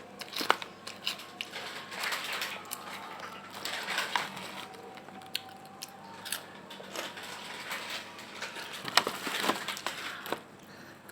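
Crunching and chewing a crispy snack close to the microphone: irregular sharp crackles, with a few louder crunches about a second in and around nine seconds in.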